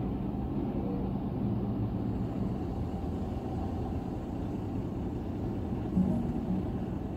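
Low, steady rumble of a car idling at a standstill in traffic, heard from inside the cabin, with a faint engine hum. A brief, slightly louder hum comes about six seconds in.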